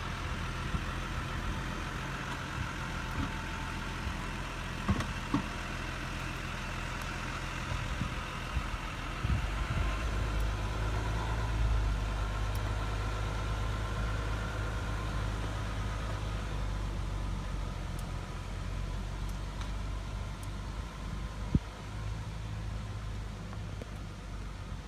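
Jeep Grand Cherokee engine running at low revs while the 4x4 crawls over a tree root, with a few short sharp knocks now and then, the loudest near the end.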